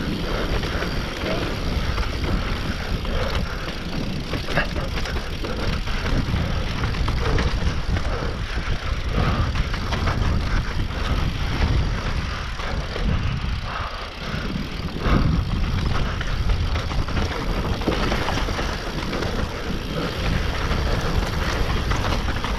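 Mountain bike descending a rough downhill trail: wind rushing over the camera microphone, tyres rolling on loose dirt and rock, and the bike rattling and knocking over roots and bumps.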